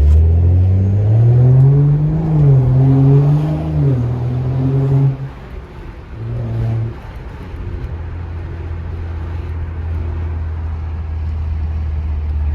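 Straight-piped BMW F10 exhaust under a hard pull from a stop. The revs climb with small dips at the gear changes, the driver lifts off about five seconds in, gives a short blip, and the engine then settles into a steady low drone while cruising.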